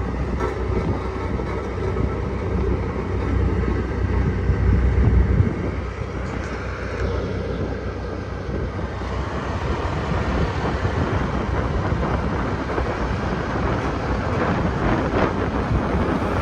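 Sakai road roller's diesel engine running steadily with a deep low rumble that is heaviest for the first five seconds or so, then eases off a little and carries on.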